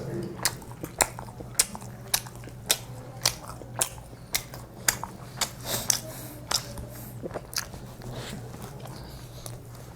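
Two people eating kebab burgers fast, biting and chewing with open-mouthed smacks and sharp wet clicks about one to two a second, over a steady low hum.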